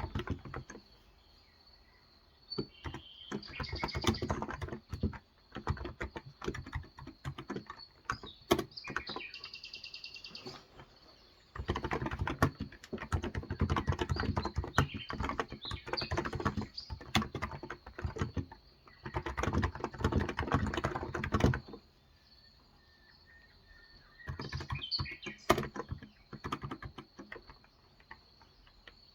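Typing on a Cox Endeavor electro-capacitive (Topre-style) 35 g tenkeyless keyboard, in several bursts of rapid keystrokes with pauses between them. Birds chirp faintly in the pauses.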